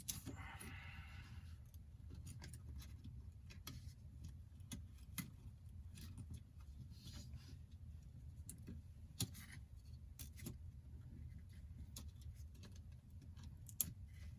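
Faint, scattered light clicks and taps of small repair tools and iPhone 8 parts being handled during reassembly, with a couple of sharper clicks later on, over a low steady hum.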